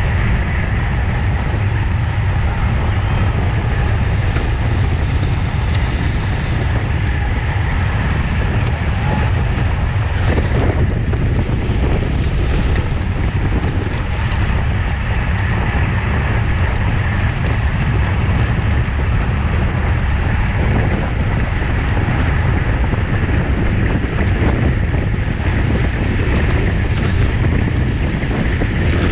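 Steady wind noise buffeting the microphone of a camera riding on a bicycle at race speed, a loud low rumble with no letup.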